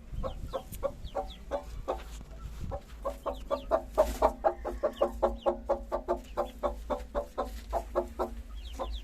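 Duck quacking in a steady run of short calls, about three or four a second, with a low rumble underneath.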